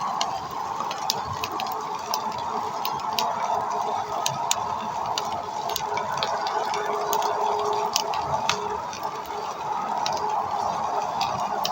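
Pork belly sizzling on a stone plate over a wood fire: a steady hiss with irregular sharp crackles and pops.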